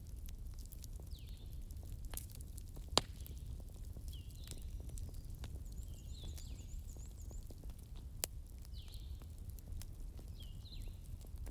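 Fireplace ambience: a low steady rumble of burning with scattered crackles and two sharp pops, one about three seconds in and one about eight seconds in. A short high chirp repeats every second and a half or so over it.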